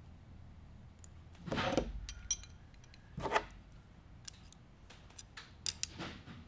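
Small metal parts of an air chuck being handled and screwed back together by hand: scattered light metallic clicks and ticks, with two brief scraping rustles.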